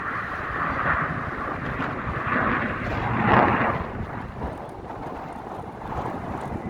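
Airplane engine noise from an aircraft passing overhead, swelling to its loudest about halfway through and then fading away, with wind on the microphone.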